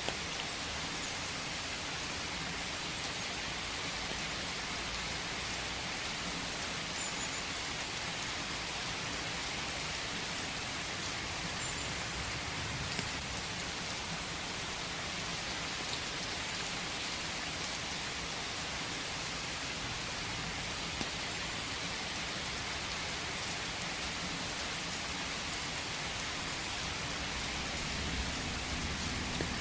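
Steady rain falling in a forest, an even hiss of rainfall with the occasional distinct drop.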